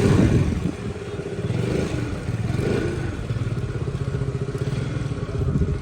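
A vehicle engine running steadily with a low, even drone, a little louder at the very start.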